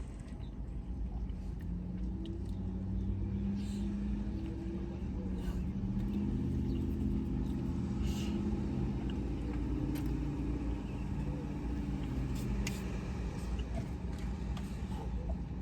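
A car engine running close by, a steady low rumble with a hum that swells a couple of seconds in and eases off near the end, with a few small clicks and crinkles over it.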